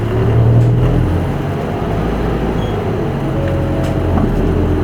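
Isuzu Erga Mio city bus's diesel engine running under way, heard from inside the cabin: a steady low hum whose pitch rises in the first second, eases off in the middle and picks up again near the end.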